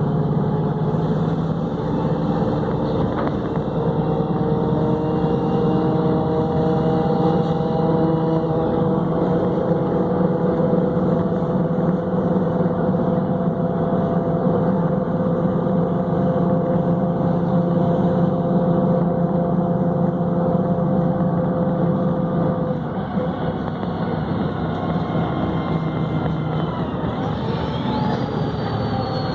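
Volvo B7RLE city bus's six-cylinder diesel engine running with a steady drone, its pitch slowly rising for about twenty seconds, then dropping away.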